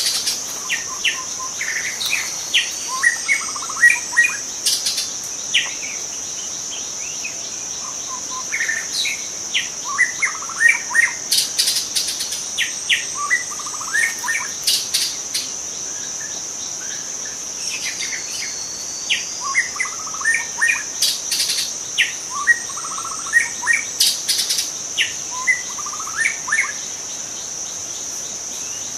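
Young white-rumped shama singing in three bouts of quick, varied chirps and whistles, each a few seconds long with short pauses between. A steady high-pitched insect drone runs underneath.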